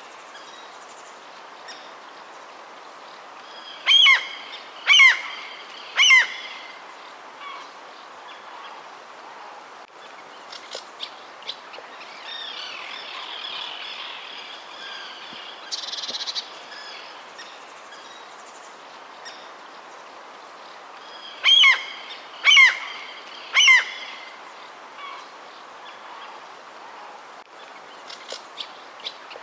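Birds calling outdoors over a steady background hiss. The loudest sounds are a bird's loud call given three times about a second apart, and the set of three comes twice, with scattered small chirps between.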